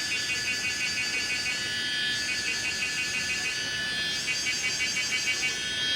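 Chorus of cicadas: a steady high shrill with a fast pulsing in it, the pulsing changing in strength every second or two.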